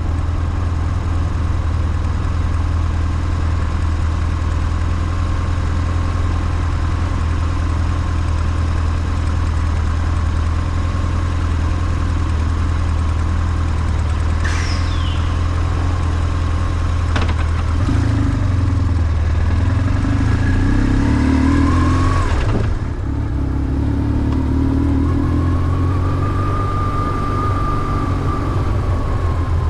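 BMW R1150GS air-and-oil-cooled flat-twin boxer engine running on the move. It runs steady and low at first, then pulls up through the revs in the second half, dips briefly, and climbs again.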